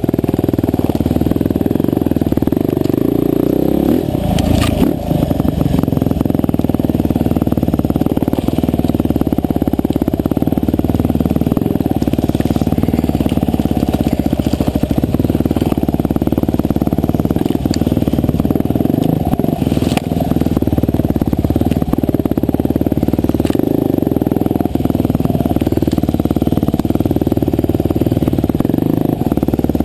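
Husqvarna TE511 enduro dirt bike's single-cylinder four-stroke engine running steadily under load while riding trail, with a few brief sharp knocks along the way.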